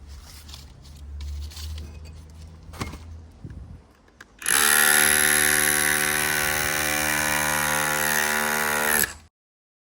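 Handheld power tool running at a steady pitch for about four and a half seconds, then cutting off abruptly; before it starts, a low rumble and a few knocks.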